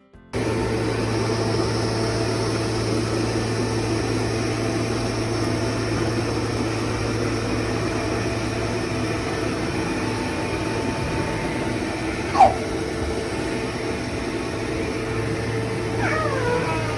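Xiaomi Mi Robot Vacuum-Mop Essential running with a steady hum. A cat meows briefly about twelve seconds in, then again more drawn out near the end.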